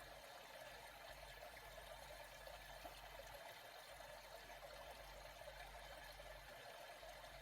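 Faint, steady trickle of moving water.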